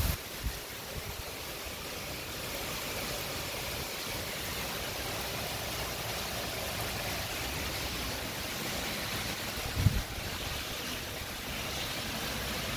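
Heavy rain pouring down steadily, an even hiss. A brief low thump about ten seconds in.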